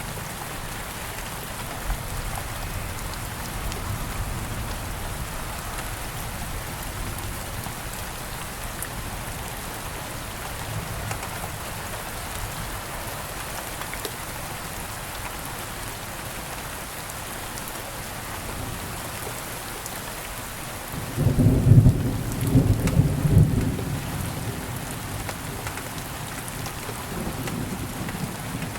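Steady rain falling, with a sudden loud low rumble of thunder about three-quarters of the way through that lasts a few seconds and then fades.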